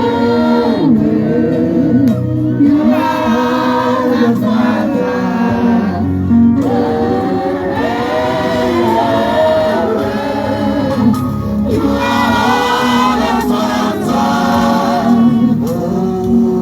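Gospel worship music: a choir singing a slow praise song together over a sustained musical backing.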